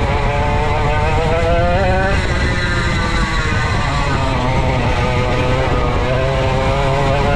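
Vintage go-kart's 135cc Sudam two-stroke engine running at racing speed. Its pitch climbs for about two seconds, drops off, then climbs again near the end.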